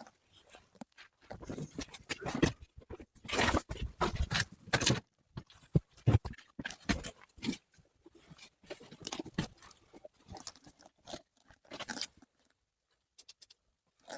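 Irregular crunching and scraping in uneven clusters, dying away for a moment near the end.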